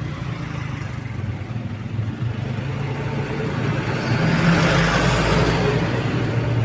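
A motor vehicle engine running with a steady low hum. A louder swell of noise comes about two-thirds of the way through and eases off near the end, as of a vehicle passing.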